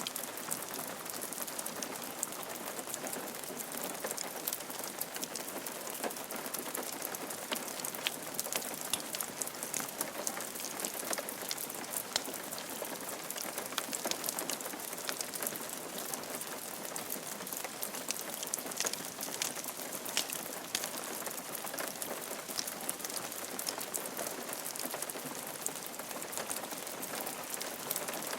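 Steady rain falling on a roof, a constant hiss with many separate drop taps throughout.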